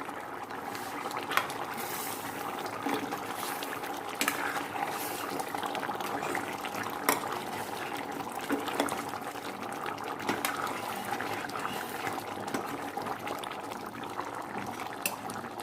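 Chicken curry gravy bubbling in a pan on the stove, with a few faint taps scattered through.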